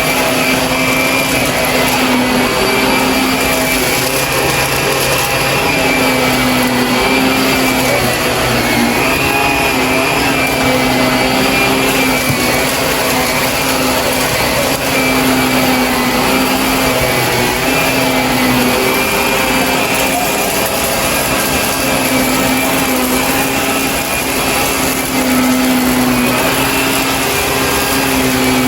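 Shark vacuum cleaner running steadily, its motor hum wavering a little in pitch as it is pushed and the load changes.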